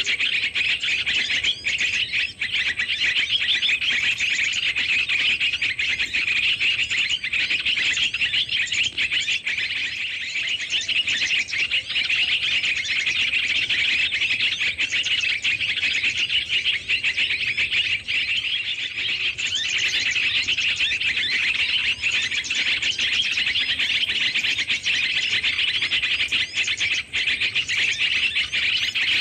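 Small songbirds chattering and chirping without a break, many quick high calls packed together at an even loudness, the agitated 'ribut' chorus used as a lure call for trapping small birds.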